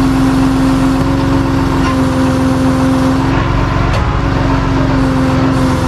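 Tow truck engine running at a steady speed, with a steady droning whine over its low, rapid firing pulse.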